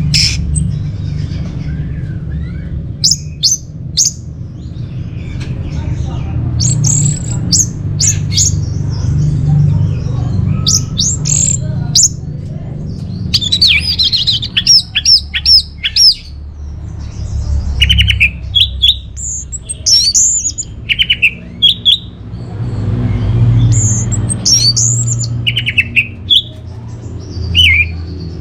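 Orange-headed thrush singing: bursts of sharp, swooping high whistles and quick note runs, one a fast series of about six notes near the middle, over a steady low hum.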